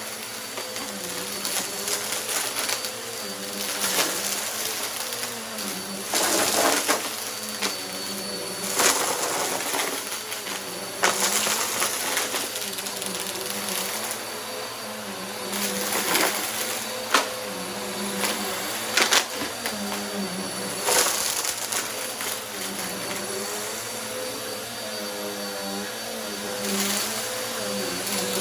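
Bissell upright vacuum cleaner running with a steady motor hum while it sucks up mess-test debris from a rug. Repeated short bursts of crunching and crackling come through as it is pushed over the litter.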